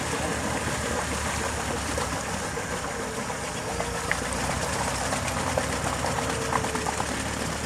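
Land Rover 90 engine running steadily at low revs while the truck sits stuck in a muddy water hole, with scattered short clicks over a steady noise.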